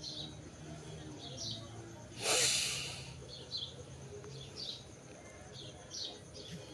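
A small bird chirping in the background, short high calls about once a second. About two seconds in, a loud breath-like hiss lasting under a second.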